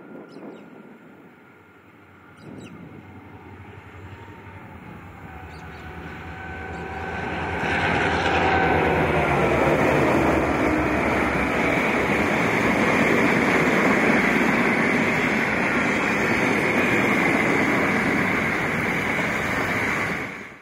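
Two diesel freight locomotives, an X class leading a P class, approach with their engines running, the sound growing over the first eight seconds. They are followed by a loud, steady run of container wagons rolling by on the rails.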